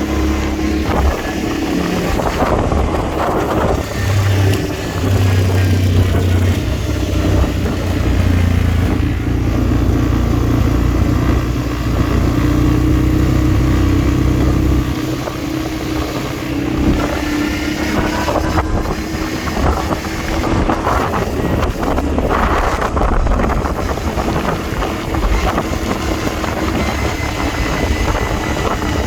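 Quad bike engine running under way, its pitch rising and falling now and then as the throttle changes, over a steady low rumble and rushing noise.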